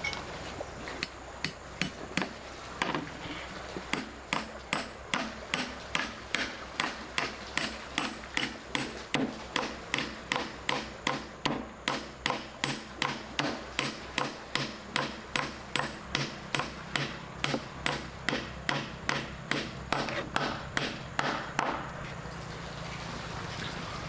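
Steady rhythmic hammering, about two blows a second, stopping near the end.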